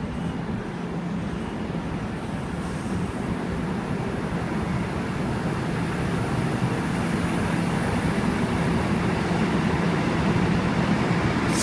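Passenger train pulling into a station platform: a steady rumble with a low hum that slowly grows louder.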